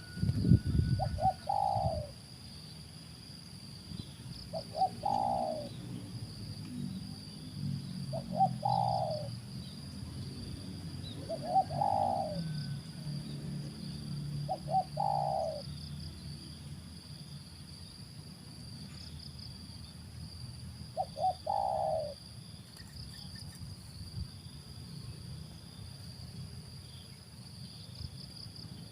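Spotted dove (tekukur) cooing: a short phrase of a few quick notes ending in a longer coo, repeated seven times about every three to four seconds, with a longer pause before the last. A steady high insect buzz runs underneath.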